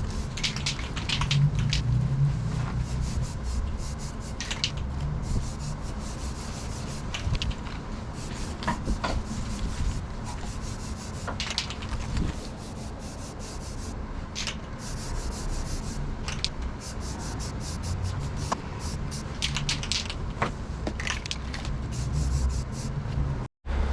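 Paint spray gun hissing in short irregular passes as bonding primer is laid on, over a steady low hum.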